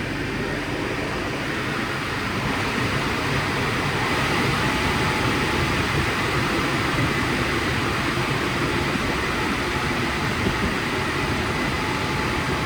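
WashTec SoftCare² Takt car wash machinery running: a steady rushing noise with a faint high whine, swelling slightly a few seconds in.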